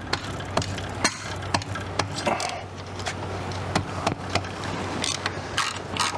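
Hand tools working on engine bolts: scattered metallic clicks and clanks of wrench and ratchet on metal, over a steady low hum.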